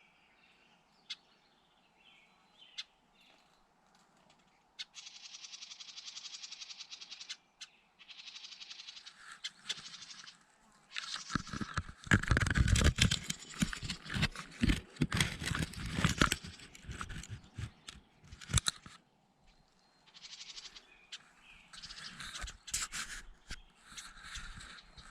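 Birds calling in short bursts, including a rapid buzzing call. In the middle there is a longer stretch of loud, rough noise reaching low down.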